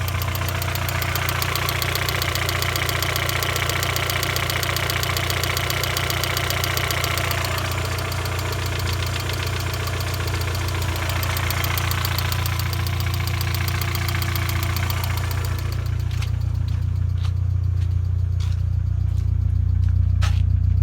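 Zafira GSi's turbocharged petrol engine idling steadily with a constant low hum. A higher hiss fades out about three-quarters of the way through, and a few sharp clicks come near the end. The owner suspects a blown turbo or worn valve stem seals, though it runs without smoke from a cold start.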